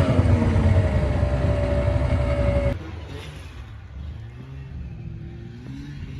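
Yamaha VMAX snowmobile's three-cylinder two-stroke engine falling back from a rev and running steadily; about two and a half seconds in, the sound drops sharply and carries on much quieter. The engine is running lean after a carb clean and needs the choke to stay running.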